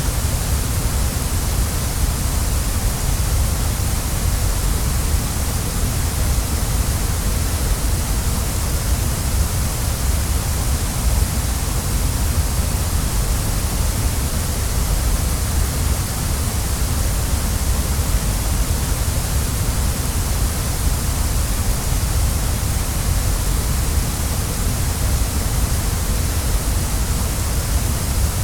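Waterfall: a steady, unbroken rush of falling water, deep at the bottom with a bright hiss on top.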